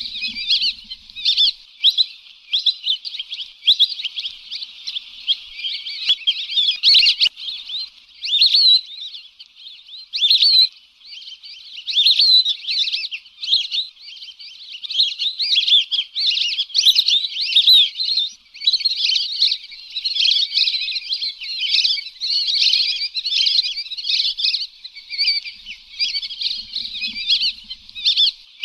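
A flock of lesser whistling ducks calling: many short, high whistled chirps overlapping without a break. This is a lure call recording for hunting.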